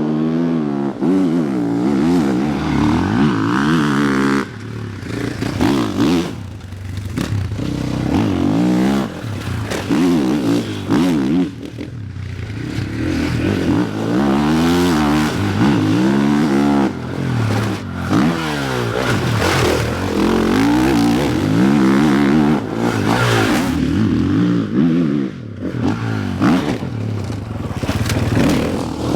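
KTM 500 enduro motorcycle's single-cylinder four-stroke engine ridden hard off-road. The revs climb and fall again and again as the throttle is opened and shut through the gears, with short lifts off the throttle every few seconds.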